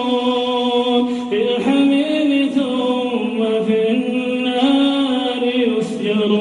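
A man recites the Quran in a slow, melodic chant, holding long notes and stepping smoothly from pitch to pitch.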